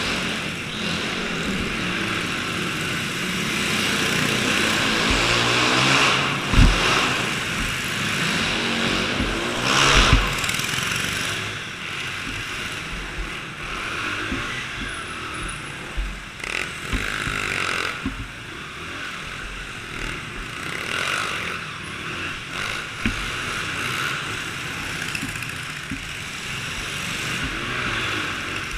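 Small dirt-bike and go-kart engines running and revving, rising and falling in pitch, with a few short low thumps; the loudest come about six and ten seconds in.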